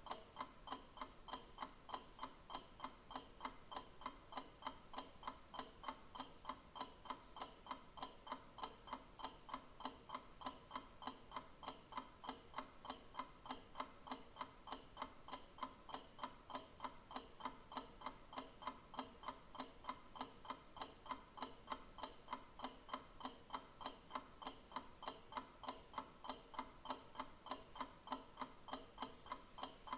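Clock ticking: even, sharp ticks, several a second, at a steady rate.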